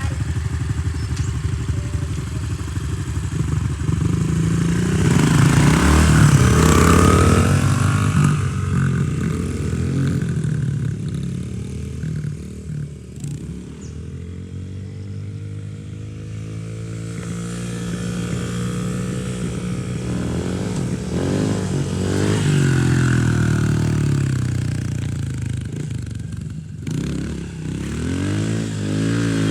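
Dirt bike engine running as it is ridden, its pitch rising and falling with the throttle. It is loudest a few seconds in, drops away through the middle, then builds up again later.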